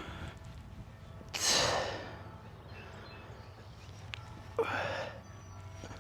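A man breathing hard from heavy kettlebell Zercher squats: a loud, forceful exhale about a second and a half in, and a shorter voiced gasp of breath near five seconds, over a steady low rumble.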